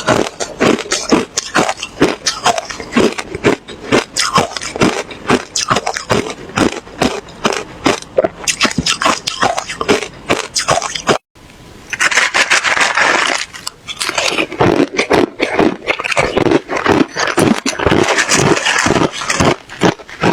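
Ice being bitten and chewed close to the microphone: a rapid, continuous run of crunches, several a second. The crunching breaks off briefly about eleven seconds in, then resumes denser.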